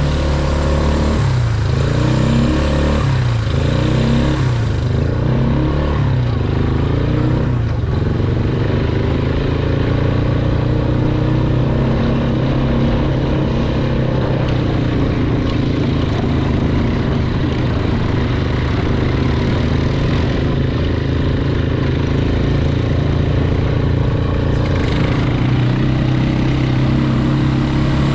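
Engine running close by, revving up and down several times over roughly the first eight seconds, then holding a fairly steady pitch.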